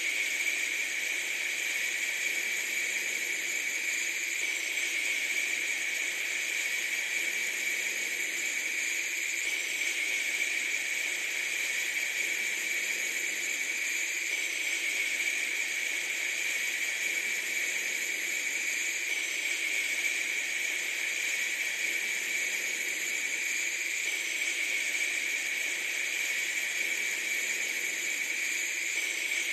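A steady, even hiss with no low rumble, unchanging throughout.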